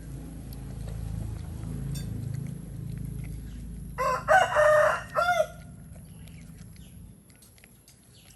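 A rooster crowing once, about four seconds in: a loud pitched call in three parts, a short note, a long held note, then a short closing note. A low steady rumble runs beneath it and fades out near the end.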